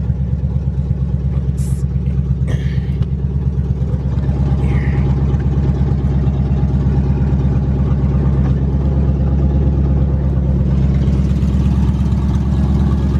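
1992 Chevrolet Camaro engine idling steadily after a jump start, with a slight rise in level about four seconds in. A couple of light clicks come about two seconds in.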